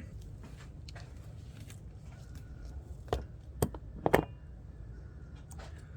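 A few sharp clicks and knocks of plastic parts being handled, the loudest a little after four seconds in, over a low steady hum.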